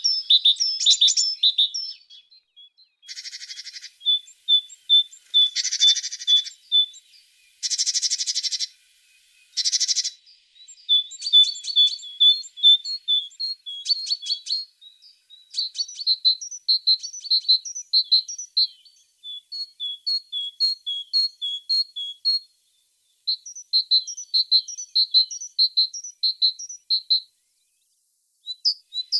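Tit singing: fast runs of short, high repeated notes and trills, phrase after phrase with brief pauses between. In the first third there are also four short, harsh buzzy bursts.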